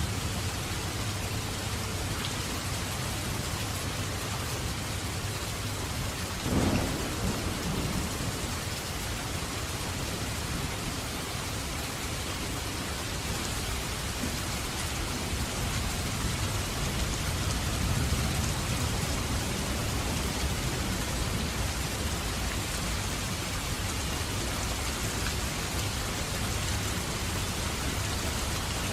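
Steady heavy rain falling, with low rolling thunder rumbling under it and swelling in the second half. A single sharp crack stands out about six seconds in.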